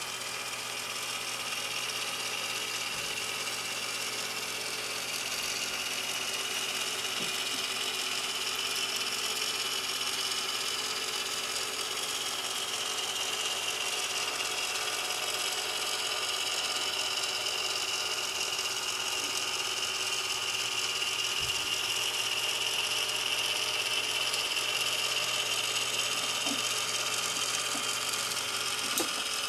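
Small motor and gear mechanism whirring steadily, growing slightly louder over the stretch.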